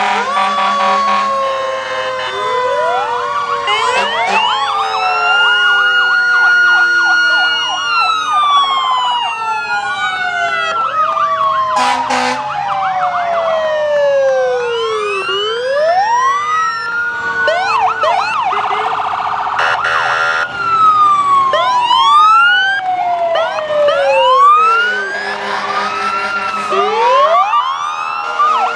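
Several fire truck sirens sounding at once, with overlapping wails rising and falling in pitch. One siren winds up, holds its top pitch for a few seconds and slowly winds down.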